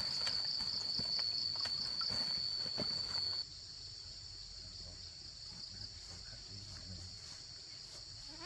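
Insects shrilling in a steady high-pitched drone. It drops abruptly to a much fainter insect chorus a little over three seconds in.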